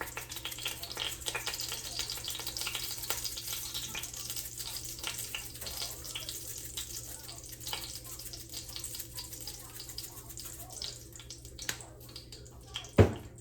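Oil sizzling and crackling in a frying pan, a steady high hiss dotted with small pops. One sharp knock near the end.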